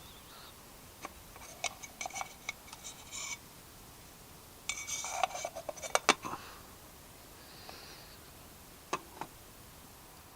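Metal cookware and utensils being handled: light clinks, taps and scraping in short bursts, with the sharpest clicks about six seconds in and two more near the end.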